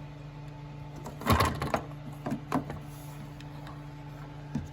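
Clicks and a short rattle of plastic parts being handled on a washing machine, loudest about a second and a half in, with a few single clicks afterwards, over a steady low hum.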